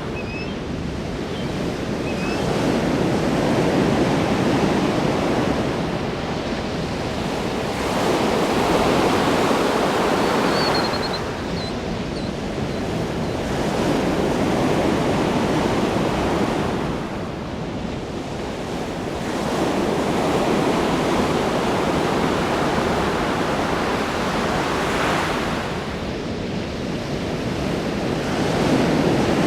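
Ocean waves breaking and washing in, the surf swelling louder and ebbing away about every five to six seconds.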